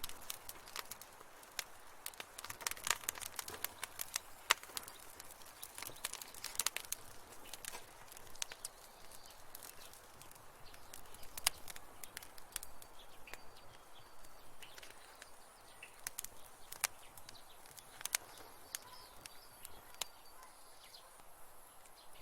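Wood fire in a fireplace crackling, with irregular sharp pops and snaps over a soft hiss, thickest in the first several seconds.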